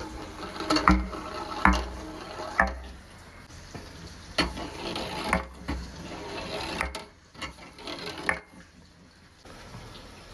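Marbles rolling and clacking down a handmade marble run, a string of irregular sharp knocks as they drop and strike the track.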